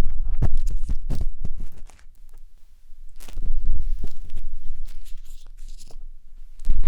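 A matchstick rubbing and scratching inside the silicone ear of a 3Dio binaural microphone: close, crackly scraping over a deep rumble. It comes in three spells with short, quieter gaps in between.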